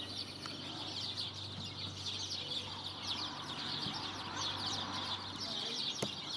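Many small birds chirping and twittering at once, a dense overlapping chatter of short, high, quick chirps, over a low steady hum.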